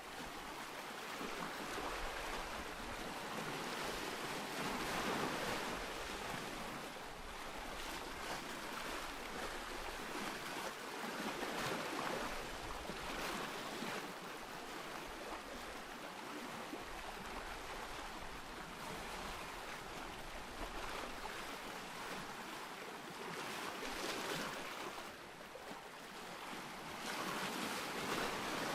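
Ocean surf: waves breaking and washing in a steady hiss that swells and eases every few seconds.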